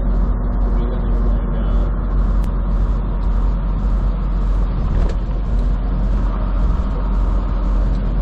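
Steady drone of a semi truck cruising at highway speed, heard inside the cab: a constant low diesel engine rumble with a steady hum over road noise.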